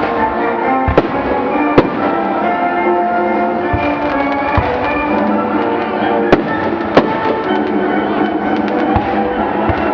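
Aerial fireworks bursting over steady music: sharp booms about a second in, just before two seconds, and twice around six and seven seconds, with runs of quick crackling between them.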